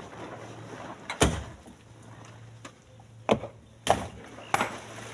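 Split stones being loaded into a truck bed, landing with heavy knocks: four irregular knocks, the first the loudest.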